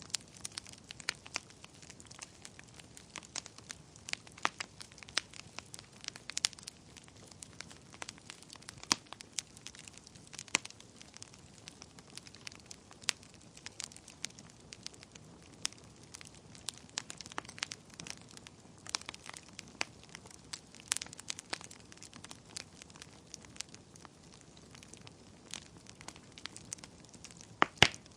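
Wood fire burning in a fireplace: irregular sharp crackles and pops over a low steady hiss of the flames, with one louder pop near the end.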